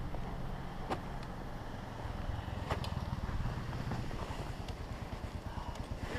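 Kawasaki KLR650's single-cylinder engine running low at idle, a steady pulsing rumble, with a few faint clicks.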